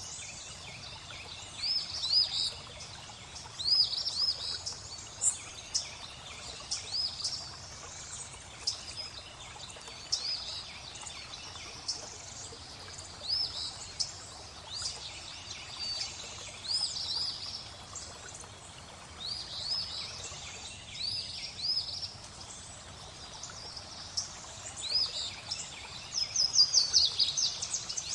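Small birds chirping in short repeated calls every second or two, with a quick burst of chirps near the end, over steady flowing water.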